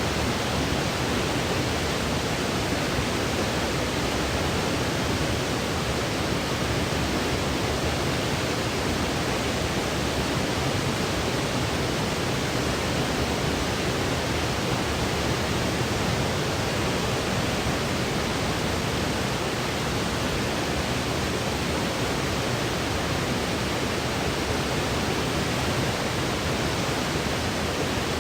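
Steady, unchanging electronically generated white noise, an even hiss spread from deep to high pitches, played as a baby sleep aid.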